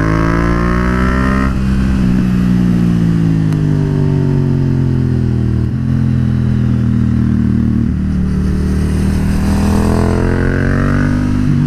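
Yamaha MT-07's parallel-twin engine through an aftermarket Akrapovic carbon exhaust, under way on the road. The pitch climbs as it accelerates, winds down for several seconds from about a second and a half in as the throttle closes, steps up suddenly about six seconds in, then climbs again from about eight seconds and drops near the end.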